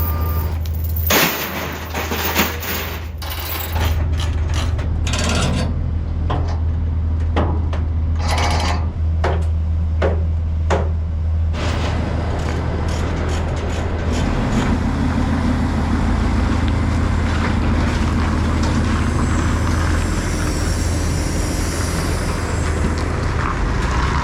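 Vehicle engine running steadily, with a string of knocks and clanks during the first half from heavy equipment being handled and loaded onto trucks.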